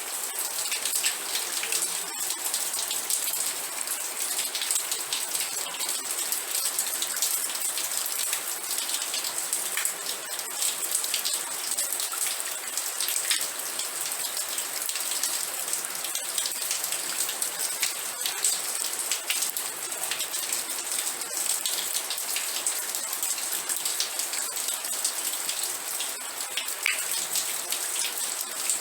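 Steady rain, a constant hiss sprinkled with many small, sharp drop hits.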